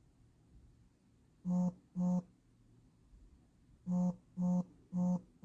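A series of short, low buzzy tones at one steady pitch: two about half a second apart, a pause of nearly two seconds, then four more at the same pace.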